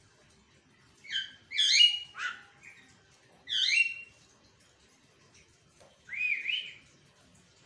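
Javan myna calling: a quick run of sharp whistled calls about a second in, another burst near three and a half seconds, and a longer warbling call around six seconds.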